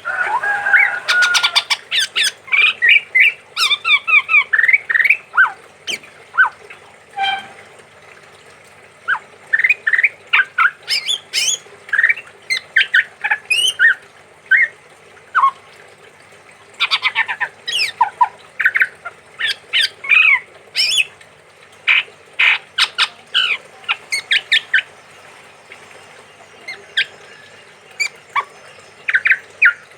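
Male chestnut-rumped babbler calling: rapid runs of short, sharp notes, in several bursts with pauses of a few seconds between.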